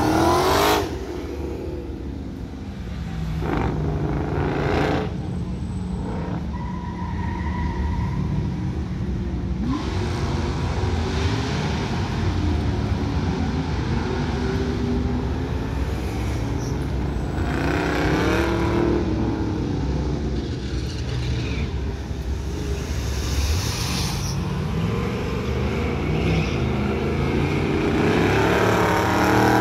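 Dodge Super Bee's V8 engine revving up and falling back again and again as the car is driven hard through an autocross course, swelling loudest near the end as it comes closer.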